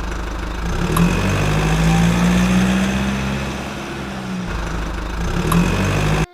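Motor vehicle engine sound, standing in for a toy jeep: a steady engine drone that revs up about a second in, settles back around the middle, and cuts off abruptly at the end.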